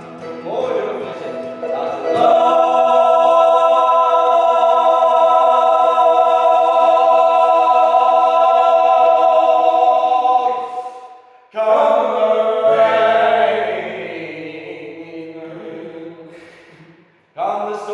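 Sung music: a long held vocal note that starts about two seconds in and lasts some eight seconds, then a second phrase that fades away, and a new phrase starting right at the end.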